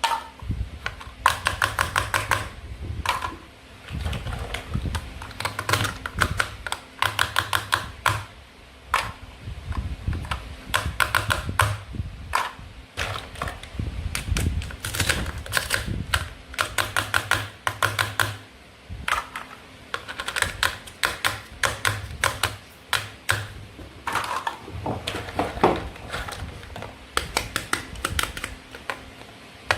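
Toy knife cutting apart play-food fruit and vegetables: repeated bursts of rapid crackling clicks, one after another every second or so, with soft thuds on the board underneath.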